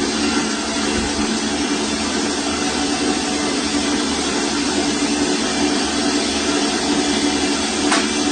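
A motor running steadily: an even mechanical noise with a low hum.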